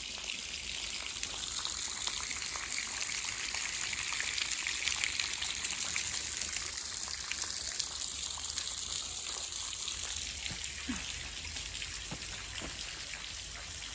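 Water dripping and trickling inside a cave: a steady patter of many small drops.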